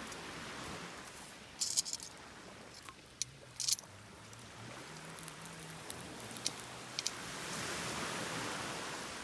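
Waves washing on the shore, swelling and falling away twice, with a few sharp clicks and clatters on top, the loudest about two seconds in.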